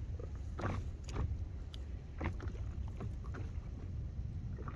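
Water lapping and sloshing around a small craft, over a steady low rumble of wind on the microphone, broken by several short knocks and splashes.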